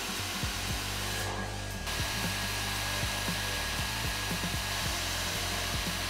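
A cheap 2000-watt Dyson-lookalike hair dryer running and blowing steadily onto hair, with a faint thin whine setting in about a second in. Its rush is modest for its rating: it does not even sound like a 2000 watt hair dryer.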